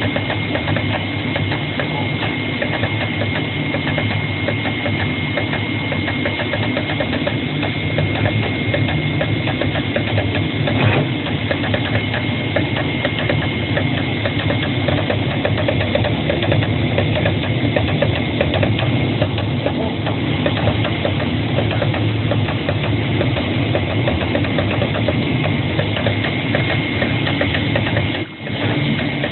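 CNC flatbed cutting machine running while it cuts paper patterns: a rapid, steady mechanical chatter from the cutting head over a constant high whine. It briefly drops out near the end.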